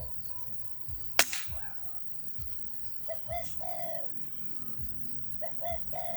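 Wild dove cooing in short repeated phrases, with a single sharp crack about a second in.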